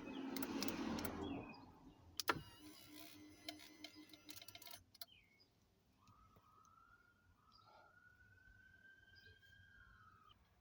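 Acura MDX's power tilt/telescope steering-column motor running in two short runs as the column adjust toggle is worked: a motor whine for about a second and a half, a sharp click, then a second run of about two and a half seconds. After that it falls near quiet, with only a faint thin tone.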